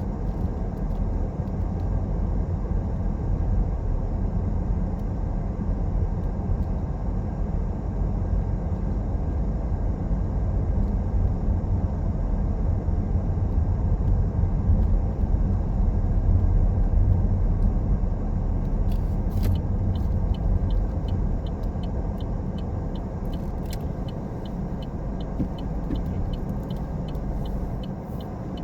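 Car driving on a road: a steady low rumble of engine and road noise that swells toward the middle and eases off later. About two-thirds of the way in, a quick regular ticking starts, a few ticks a second.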